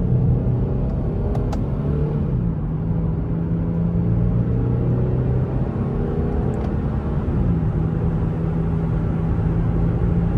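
Infiniti G37's V6 engine and road noise while the car is driven at a steady pace, heard from inside the cabin. The engine note holds steady and shifts slightly in pitch a couple of times.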